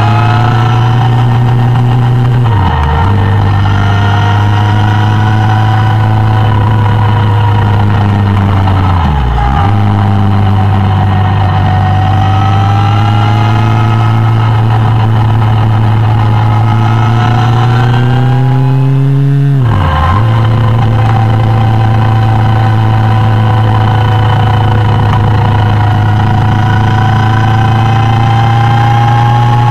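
Suzuki Bandit 1200's inline-four engine running loud and steady from onboard the moving motorcycle, its note drifting slowly up and down with speed. The note dips sharply and briefly three times, about 3, 9 and 20 seconds in.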